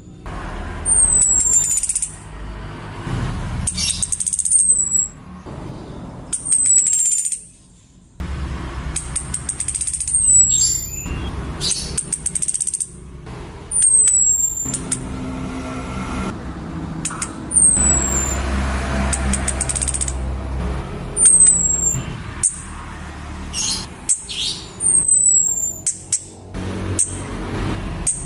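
Female orange-headed thrush giving thin, very high, downslurred whistled calls, repeated every few seconds: a female calling to a male. Behind them is a hissy, crackling background with a low rumble.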